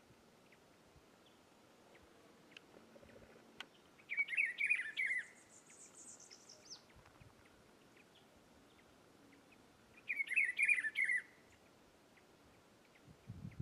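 Rufous-browed peppershrike (pitiguari) singing two short warbled phrases about six seconds apart, the first about four seconds in. A thin, high, descending series of notes follows just after the first phrase.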